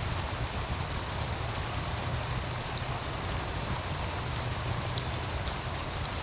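Wood fire crackling, with a few sharp pops, the loudest two near the end, over the steady rush of a running stream and a low rumble.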